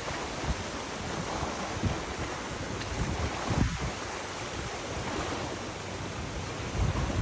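Wind blowing across the microphone: a steady rushing noise with uneven low buffeting thumps.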